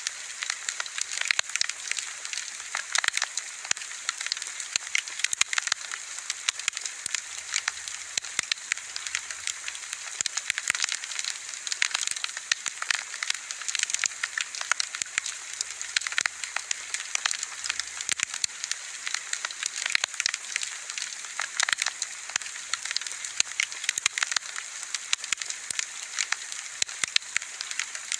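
Wood fire burning with a steady hiss and frequent sharp crackles and pops.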